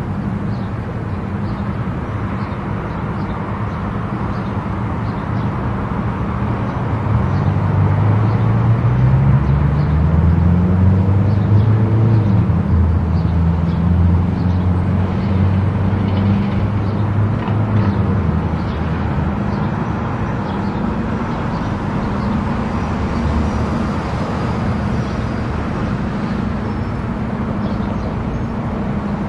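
Car travelling at highway speed: steady tyre and road noise with a low engine drone. Midway through, the drone rises in pitch and grows louder for about ten seconds, then settles back.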